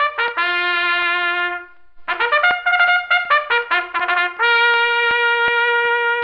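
A trumpet playing a short tune in two phrases. Each phrase is a run of quick notes that ends on a held note; the second held note is the longer one.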